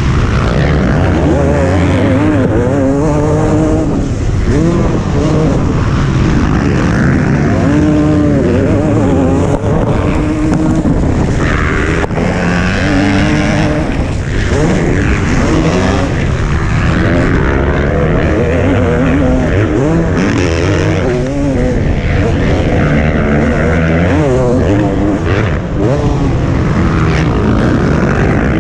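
Motocross bike engine revving hard and falling back again and again as the rider works through the corners and jumps, its pitch rising and dropping throughout, heard up close from the rider's helmet camera.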